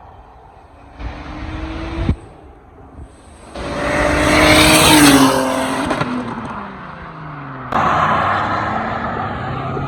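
Single-turbo Audi S4 V8 being driven hard in short cut-together clips: a brief engine rev rising in pitch, then the car accelerating past loudly, its pitch dropping as it goes by, then the engine running steadily under way.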